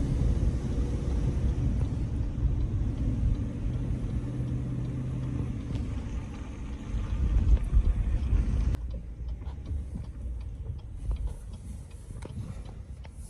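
Low, steady rumble of a Chevrolet Silverado Trail Boss pickup with a 6.2-litre V8, engine and road noise heard from inside the cab, the truck under load towing another truck at low speed. About nine seconds in, the sound drops and thins to a quieter low rumble.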